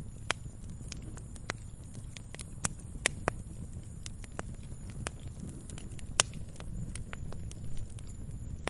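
Wood fire crackling in a fireplace: irregular sharp pops and snaps, a few much louder ones, over a steady low rumble.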